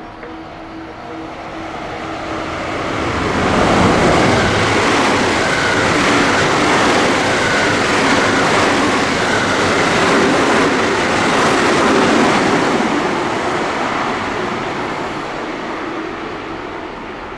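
A JR West train passing through without stopping: the rail and wheel noise builds up, stays loud for about ten seconds, then fades away.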